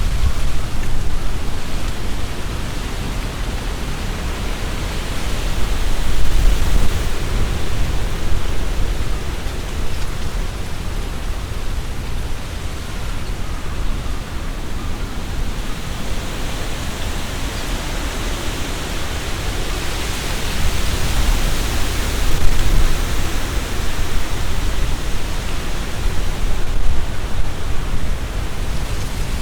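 Strong wind gusting through trees, with leaves rustling and a low rumble of wind on the microphone. It swells in gusts about six seconds in, again past twenty seconds, and near the end.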